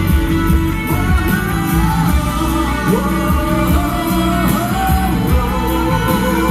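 Live pop-rock band playing with a steady drum beat, under a sung vocal line that slides between long held notes.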